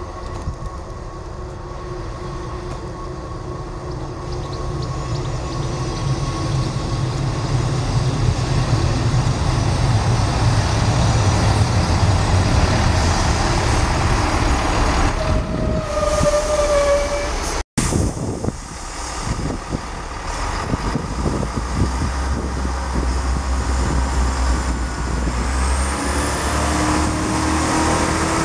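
Class 158 diesel multiple unit running in alongside the platform, its underfloor diesel engines and wheels getting louder as it nears, with a brief brake squeal about halfway through. After a short break in the sound the engines drone low, and a rising whine sets in near the end.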